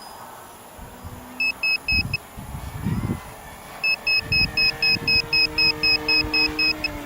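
High-pitched electronic beeping, about four short beeps a second: a run of four, then after a pause a longer run of about a dozen. Wind buffets the microphone underneath.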